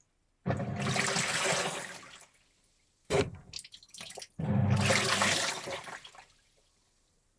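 Washing machine sloshing water and wet T-shirts in its drum: surges of splashing a second or two long with near-quiet pauses between, the second one broken into several short splashes.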